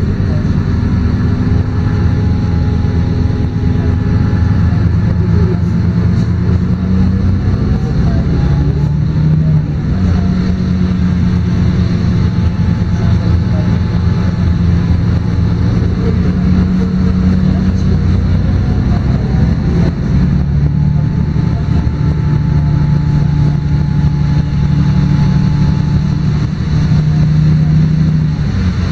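LiAZ-5292 low-floor city bus diesel engine and automatic transmission running under way, heard from inside the cabin. The engine note rises and drops a few times as the bus accelerates and shifts, with a fainter drivetrain whine riding along.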